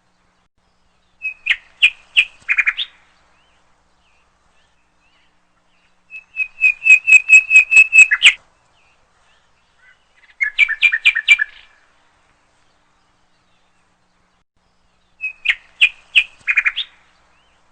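A bird calling in four short phrases of rapid, high chirping notes, a few seconds apart, with silence between them.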